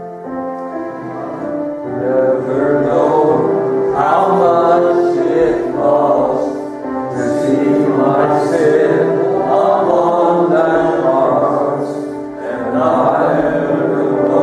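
Congregation singing a hymn together with instrumental accompaniment.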